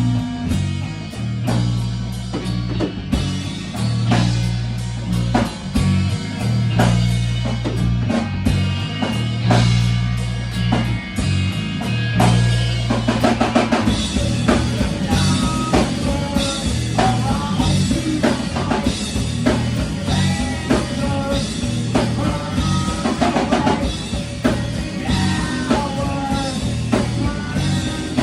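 Rock band playing live: drum kit beating steadily over held bass notes, with guitar. The playing grows busier about halfway through.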